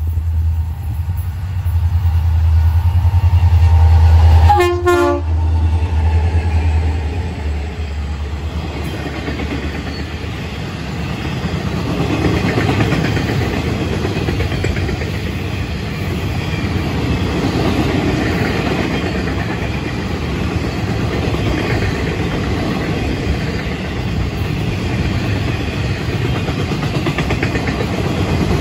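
Freight diesel locomotives pass at speed, their engines a deep drone that peaks as they go by, with a brief horn note dropping in pitch as they pass. A long train of rail-rack flatcars follows, rattling and clattering steadily over the track.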